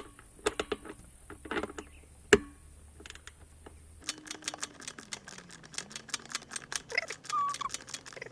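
Ratchet wrench with a 10 mm socket tightening a screw: a few separate clicks and one sharp knock, then from about halfway a fast, even run of ratchet clicks.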